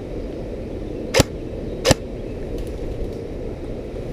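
Two sharp single shots from an airsoft gun, about three-quarters of a second apart, over a steady low background rush.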